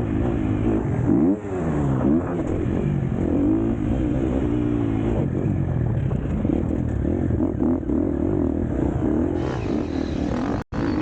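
KTM 250 SX-F four-stroke motocross bike engine being ridden hard, its pitch rising and falling over and over as the throttle is opened and closed and the gears change. The sound cuts out for an instant near the end.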